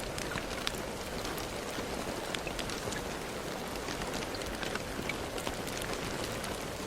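Steady rain: a dense, even hiss with many separate drops ticking sharply close by.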